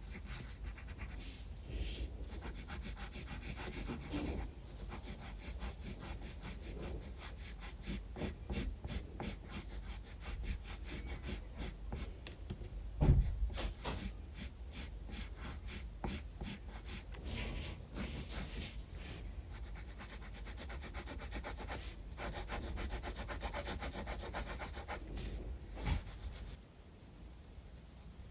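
Graphite pencil scratching on sketchbook paper in quick, rhythmic strokes, with a louder knock about halfway through and another shortly before the end.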